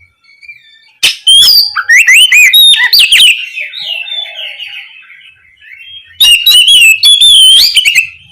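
Oriental magpie-robin (Copsychus saularis) singing loudly: varied whistled phrases with quick rising and falling notes. The bursts come about a second in and again near six seconds, with softer twittering between them.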